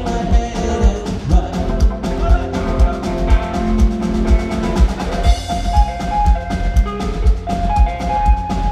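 Rockabilly band playing live: a drum kit keeps a steady beat of about two hits a second under sustained instrumental notes.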